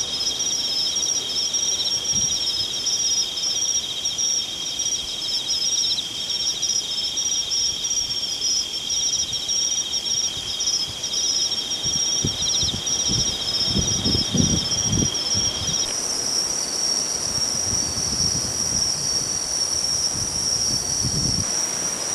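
Several insects, crickets among them, singing at once in steady high pulsing trills. One singer stops about two-thirds of the way through, and a higher-pitched one starts at the same moment. A few low rumbles come in the middle.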